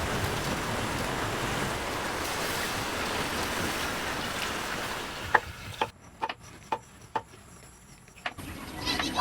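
Steady heavy rain. About five seconds in it gives way to a quieter stretch broken by about six sharp knocks over some three seconds.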